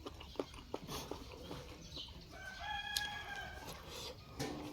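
A rooster crows once, about two and a half seconds in, a single level call lasting over a second. Scattered small clicks and taps sound around it.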